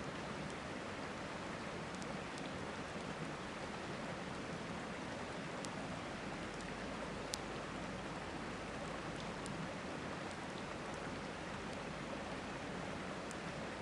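A river rushing steadily, with a campfire crackling now and then in sharp single pops; the loudest pop comes about halfway through.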